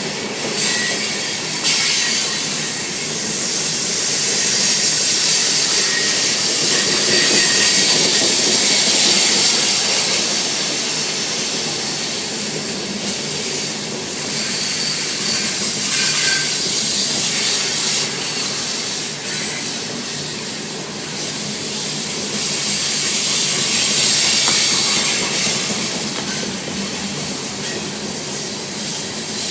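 Cars of a Union Pacific coal train rolling past: a steady rush and hiss of wheels on rail, with brief high squeals from the wheels now and then.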